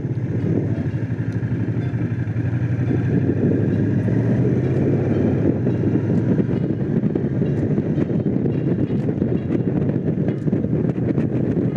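Honda CX500's liquid-cooled V-twin engine running steadily under way, heard from the bike while riding.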